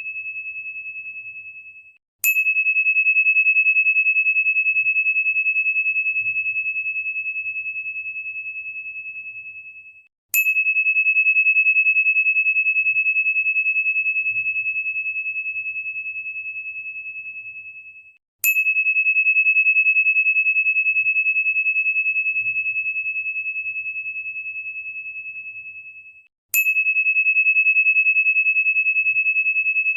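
A single high, pure crystal tone, struck four times about eight seconds apart; each strike rings out and fades slowly before the next.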